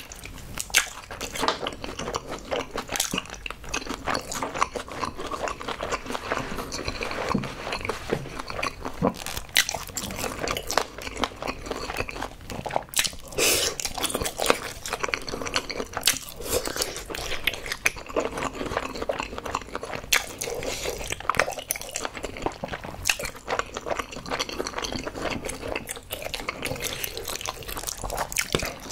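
Close-miked wet chewing, lip smacks and sharp mouth clicks from eating spicy tteokbokki with fish cake, coming irregularly throughout.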